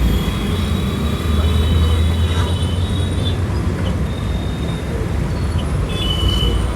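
Steady wind rush and road and traffic noise while riding a Bajaj Chetak electric scooter, with a strong low rumble. A thin high whine comes and goes through the first half and again near the end.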